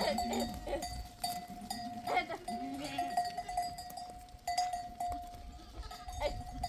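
Livestock bells clanking steadily, with a few bleats from the animals.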